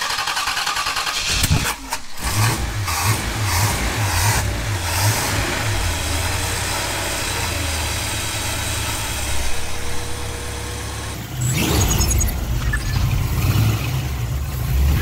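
An aerosol can of carburetor cleaner hisses as it is sprayed into the carburetor. Then the carbureted engine cranks and catches about two seconds in, first running unevenly and then more steadily, with a couple of brief revs.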